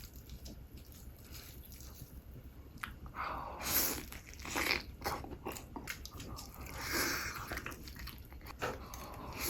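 Close-miked crunchy bites and chewing of chicken, ASMR-style. It is faint for the first few seconds, then a run of loud crunches starts about three seconds in.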